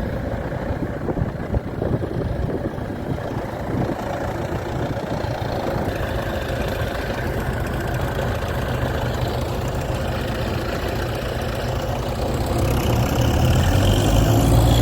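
Heavy tractor diesel engines running steadily, one growing louder and deeper over the last couple of seconds as it takes up the load.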